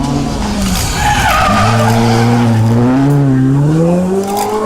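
Rally car sliding through a corner with its tyres squealing about a second in, then the engine pulling hard, its revs rising over the second half.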